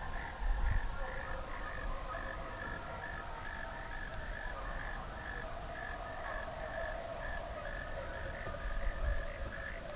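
Frogs calling: a steady series of short high chirps, about three a second, with a faint steady high whine behind them.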